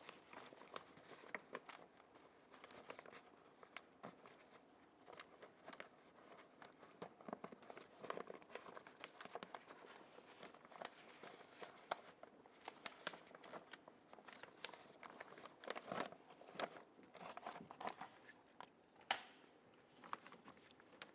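Faint crinkling and crackling of a plastic door water shield being handled and fitted over the wiring harness, with scattered small clicks and one sharper click near the end.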